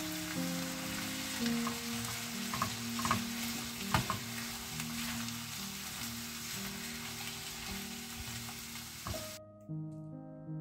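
Diced zucchini pulp and onion sizzling in hot oil in a frying pan as they are stirred with a silicone spatula, with a few light knocks of the spatula against the pan. The sizzle cuts off suddenly about nine seconds in, leaving soft background music.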